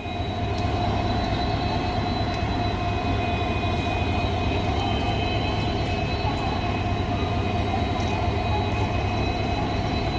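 WDP4 diesel-electric locomotive, with its 16-cylinder two-stroke EMD engine, running steadily at the head of an express train: a continuous low drone with steady high whining tones and a few faint clicks.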